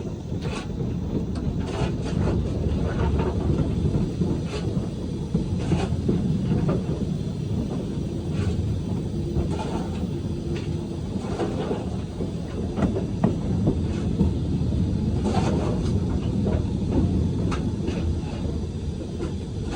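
Train running along the track: a steady low rumble with scattered, irregular clicks of the wheels over the rails.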